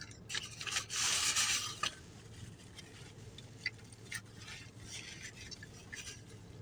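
Rubbing, rustling noise of food packaging being handled, loudest for about a second near the start, with scattered small clicks over a low steady hum.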